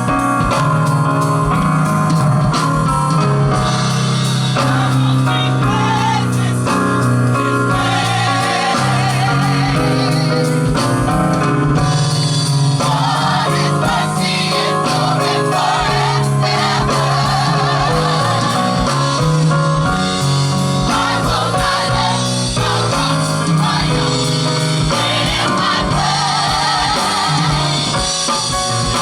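Live gospel music: several voices singing together over electric guitar, bass and drum kit.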